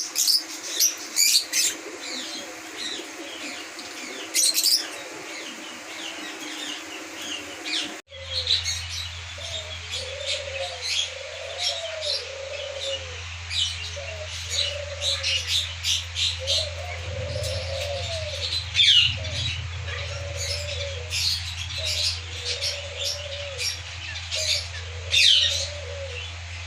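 Many small caged birds chirping densely and continuously. After a sudden cut about 8 seconds in, doves coo over and over above the chirping, with a steady low hum underneath.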